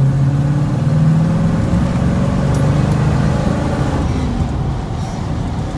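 Fuel-injected 454 big-block V8 of a Chevy square body pickup accelerating at about half throttle, its pitch climbing over the first couple of seconds, then holding and easing off toward the end.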